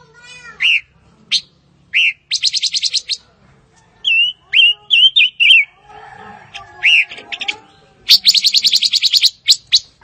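Silver-eared mesia singing: scattered short call notes, a run of quick warbled whistles, and two fast rattling trills of many rapid notes.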